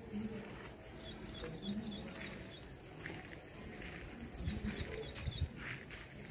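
A bird chirping in quick runs of short high notes, several runs in a row, over a faint outdoor background. A few soft low thumps come in the second half.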